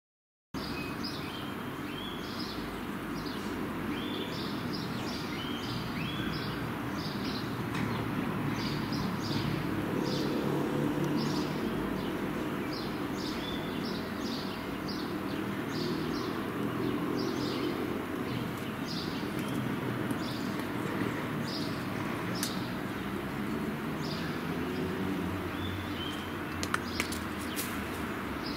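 Ringneck parrot calling: short high-pitched notes repeated about once or twice a second, over a steady low background rumble, with a couple of sharp clicks near the end.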